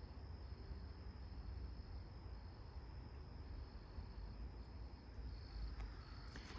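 Faint evening insect chorus: a steady high trill with a second, pulsing trill just below it, over a low rumble. A few faint clicks come near the end.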